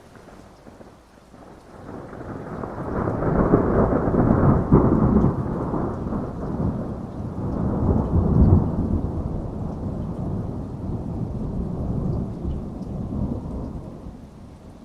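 A long roll of thunder over steady heavy rain: the rumble builds about two seconds in, swells twice, then slowly dies away near the end.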